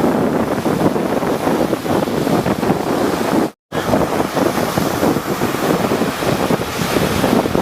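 Rough sea waves surging and breaking, with wind buffeting the microphone; the sound cuts out suddenly for a split second about halfway through.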